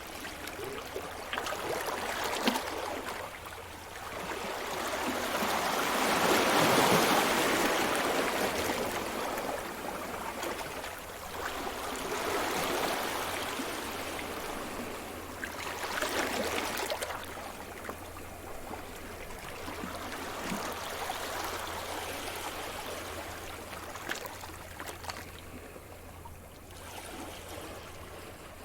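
Sea surf: waves breaking and washing up the shore in slow surges. The biggest comes about seven seconds in, smaller ones follow, and it fades to a softer wash near the end.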